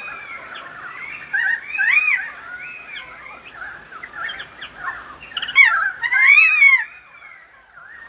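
Pied currawong singing: a run of warbled, arching notes, loudest in two phrases, one about two seconds in and another about six seconds in.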